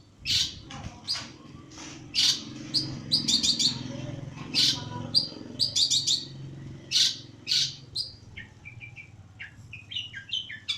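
Long-tailed shrike (pentet) giving harsh, rapid chirping calls in repeated quick bursts. From about eight seconds in, the notes become shorter and fainter.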